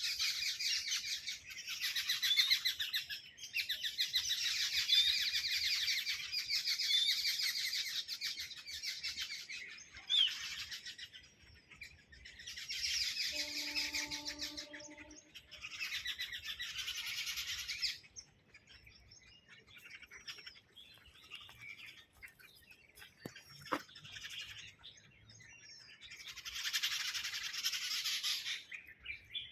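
A flock of small birds chirping and twittering together in bursts, the first lasting about ten seconds, with quieter gaps between bursts.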